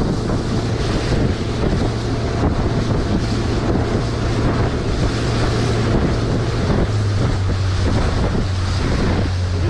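Motorboat engine running steadily underway, with wind buffeting the microphone and water rushing past the hull. The engine's hum drops slightly in pitch about seven seconds in.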